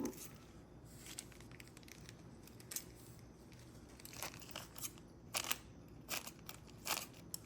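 Small lock tumbler wafers being picked through and handled: faint, scattered light clicks and rustles, a handful over several seconds, closer together in the second half.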